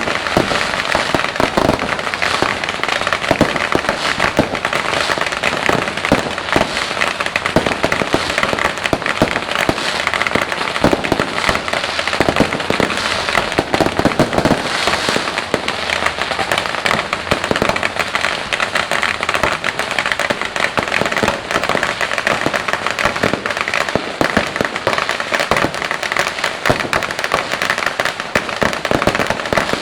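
Dense, continuous crackling and banging of fireworks and firecrackers going off in rapid succession, without a break.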